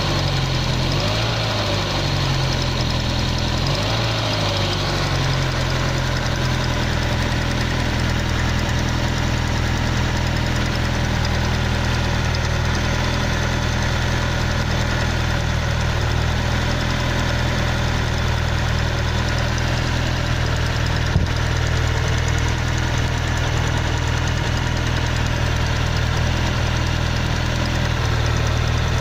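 Car engine idling steadily after a cold start, carrying an abnormal noise that the owner places at the cylinder on the driver's-side end of the engine. A single sharp click sounds about two-thirds of the way through.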